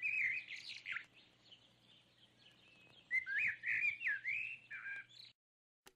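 Songbirds singing: short whistled chirps that glide up and down in pitch, in two bouts, the second starting about three seconds in. The birdsong cuts off abruptly shortly before the end, followed by a brief knock.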